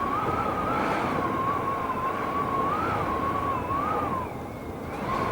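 Strong, gusty wind blowing with a steady rush and a high whistle that wavers up and down in pitch, fading out about four seconds in.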